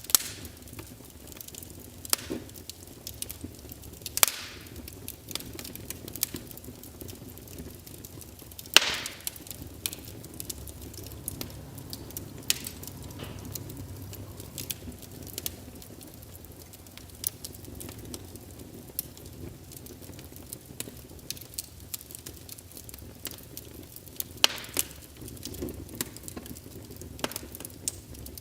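Wood fire of burning logs crackling steadily, with a handful of louder sharp pops over a low, even rush of flame.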